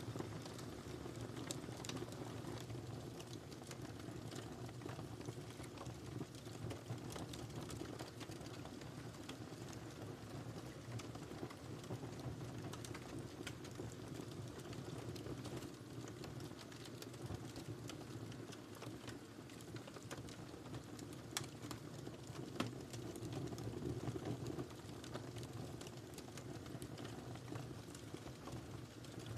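Wood fire crackling in a fireplace: irregular small pops and snaps over a steady low rumble of the flames, with a sharper pop or two a little past the middle.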